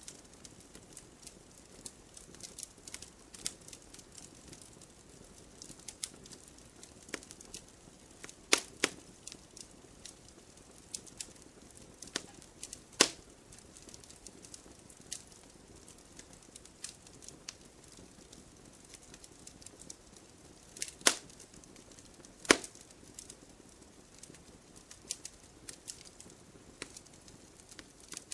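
Wood fire crackling: frequent small irregular pops and snaps over a faint hiss, with a few louder sharp pops about eight, thirteen, twenty-one and twenty-two seconds in.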